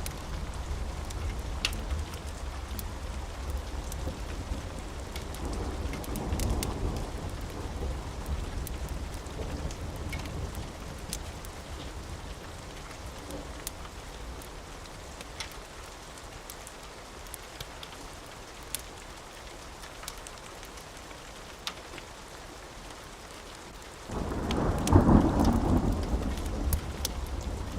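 Steady rain with low rolling thunder and scattered sharp ticks. The rumble eases off through the middle, then a louder clap of thunder breaks in suddenly near the end and keeps rumbling.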